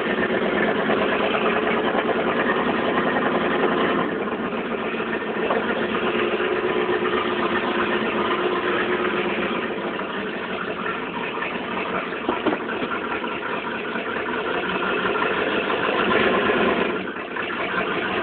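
1986 GMC High Sierra pickup's engine running, the truck being moved on a failing transmission; the engine note swells and eases a little and dips briefly near the end.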